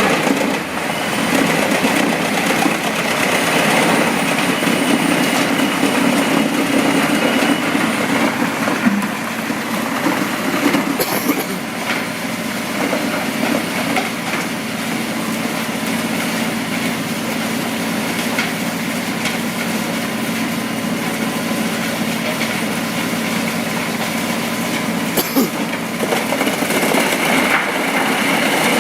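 Wood chipper running steadily under its engine, with two short, sharp knocks.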